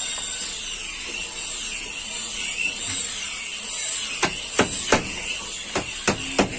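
Workshop tool noise: a steady high hiss, then in the second half about six sharp, irregularly spaced knocks of tools striking metal.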